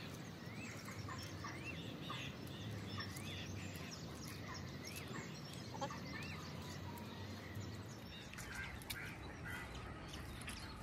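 A bird calling repeatedly: short, faint high notes that rise and fall, about one a second. The calls stop about two-thirds of the way through, and a few soft clicks follow.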